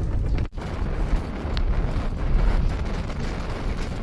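Gale-force wind, around force 8, buffeting the microphone as a dense low rushing noise that swells and eases in gusts, with a brief dropout about half a second in.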